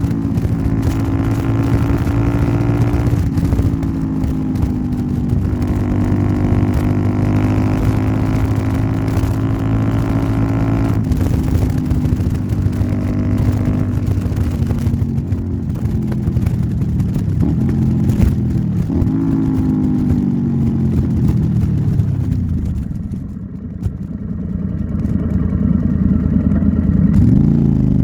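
Royal Enfield Interceptor 650's 648 cc parallel-twin engine, fitted with a Nuke aftermarket exhaust, running under way. It holds steady pulls with breaks for gear changes, revs up and down several times, drops off briefly near the end, then climbs again.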